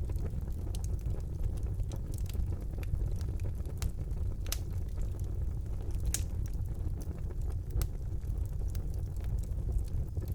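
Wood fire burning in a fireplace: a steady low rumble of the flames with scattered sharp crackles and pops, the loudest about four and a half and six seconds in.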